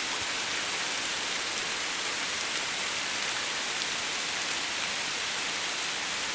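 Heavy tropical rain falling on a river and its wooded bank: a dense, steady hiss.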